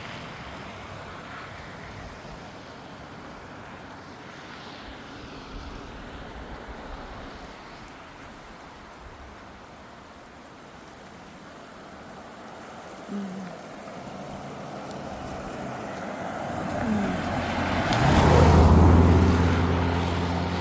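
Steady rushing noise, then a motor vehicle's engine swells loud with a low hum about eighteen seconds in and eases off again.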